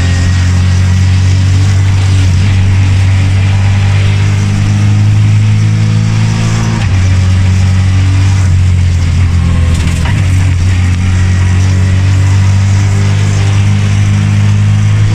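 Ford Fiesta rally car engine running hard under load. Its pitch holds steady for stretches, then jumps abruptly: down about a third of the way in and near the end, and up about two thirds of the way in.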